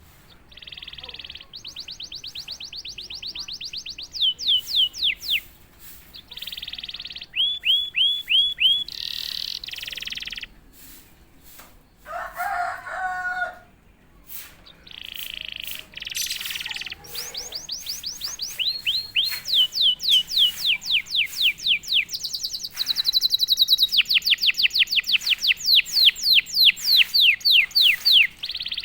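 Domestic canary singing: phrases of rapid repeated notes and buzzy rolls, each held a second or two and then switching to a new trill, with short pauses between them.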